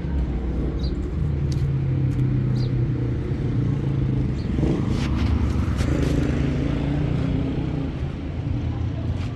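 Motor vehicle engine running steadily with a low hum, with scattered light clicks and a swell of louder road noise about halfway through.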